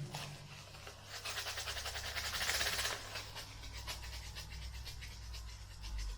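Rapid panting breaths, fastest and loudest about two to three seconds in, over a steady low hum. At the very start, a drum hit from just before is still ringing away.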